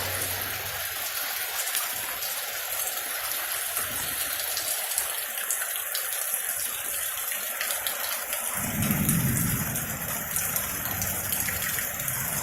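Heavy rain falling steadily in a thunderstorm, with a low rumble coming in about two-thirds of the way through.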